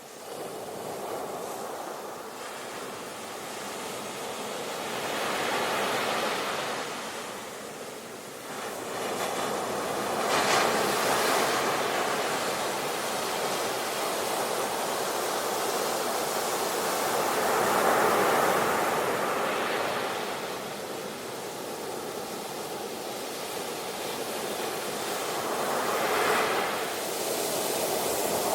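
Ocean waves breaking and washing up on shore, the surf swelling and ebbing every few seconds.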